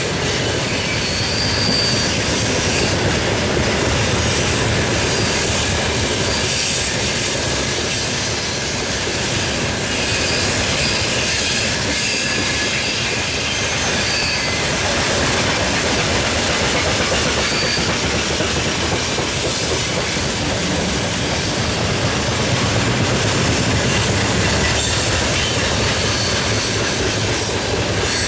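Freight train wagons rolling past: a steady noise of steel wheels running on the rails, with brief high wheel squeals a few times.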